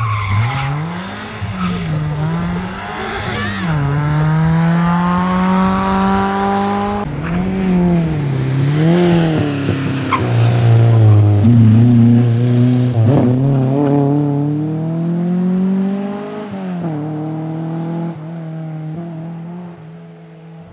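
Rally car engine under hard throttle, its revs climbing and dropping sharply again and again with gear changes and lifts, tyres squealing as it slides. The engine fades away near the end.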